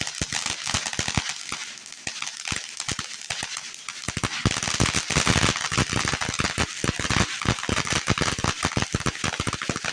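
Several ground fountain fireworks burning at once, hissing with a dense, rapid crackle. The crackling gets louder and thicker about halfway through.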